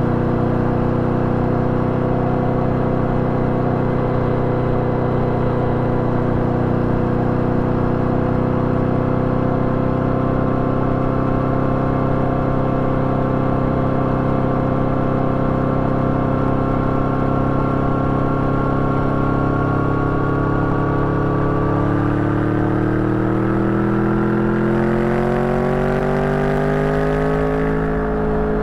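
Yamaha VMAX 1700's V4 engine running through an Akrapovič exhaust while riding at a steady cruise, its pitch holding level and then rising over the last several seconds as the bike accelerates, with wind hiss growing as it speeds up.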